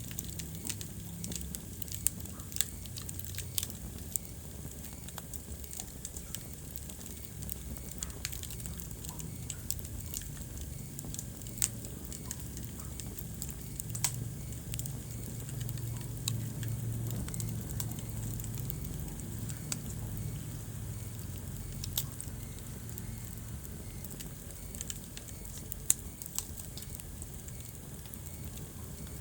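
Wood fire burning in a fireplace: sharp crackles and pops at irregular intervals over a low, steady rumble of the flames, which swells for a few seconds in the middle.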